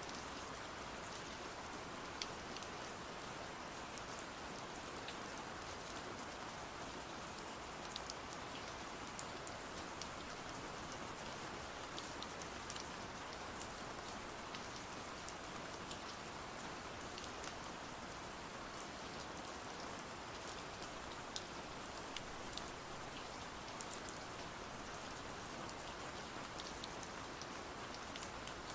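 Steady rain falling, an even hiss with scattered sharp ticks throughout.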